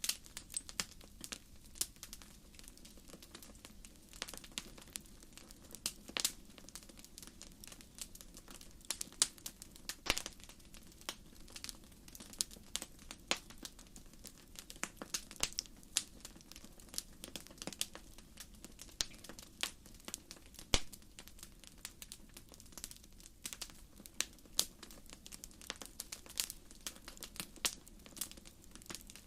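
Wood campfire crackling: irregular sharp pops and snaps from the burning firewood, several a second, over a low steady rush of the flames.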